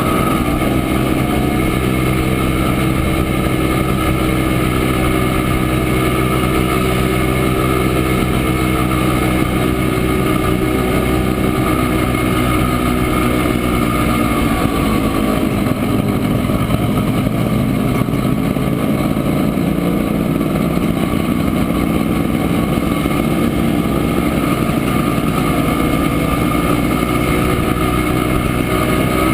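Montesa Impala 175's single-cylinder two-stroke engine running steadily while riding, its note shifting about halfway through.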